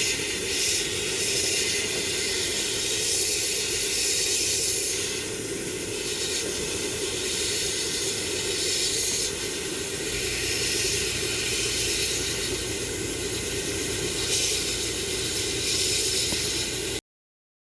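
Steady hissing jet of a spray or air blast used in cleaning a car air conditioner's evaporator, with a steady hum beneath it; it cuts off abruptly near the end.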